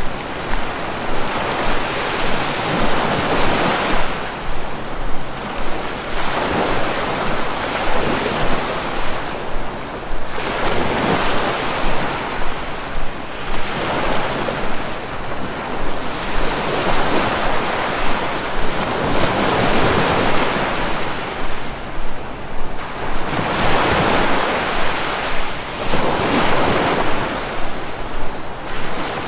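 Sea waves breaking and washing on a shore, swelling and falling again about every two to three seconds.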